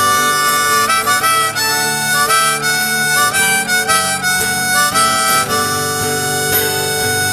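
A rock band playing an instrumental passage live, with a high lead melody stepping between short notes over a steady chordal backing.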